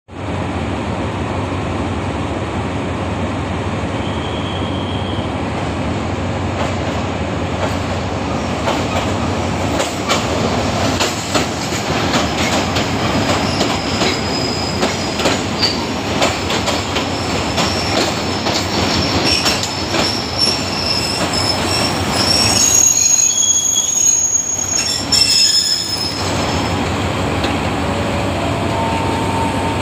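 Passenger train pulling into a station and slowing: a steady engine hum as it approaches, then the coaches roll past with wheels clacking over rail joints. High-pitched wheel squeal sets in about halfway through and is loudest near the end as the train slows to stop.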